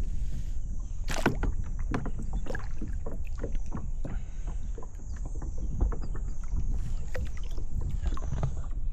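Kayak on open water: the paddle splashes and drips in irregular small splashes and knocks, with a sharper splash about a second in. Underneath is a steady low rumble of wind on the microphone.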